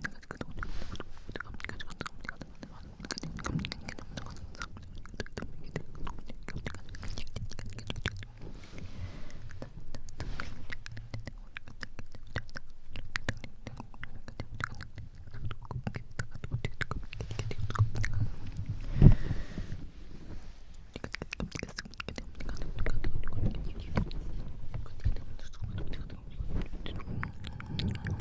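Close-miked wet mouth sounds: many small tongue and lip clicks and smacks with unintelligible whispering and breath blowing on the microphone, plus one louder thump about nineteen seconds in.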